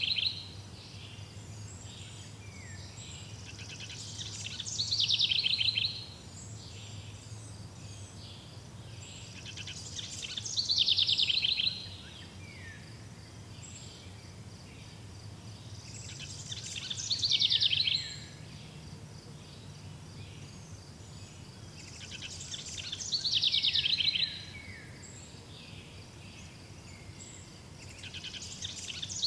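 A bird singing the same short phrase about every six seconds. Each phrase lasts under two seconds and grows louder before it cuts off. Beneath it runs a steady faint chirring of insects.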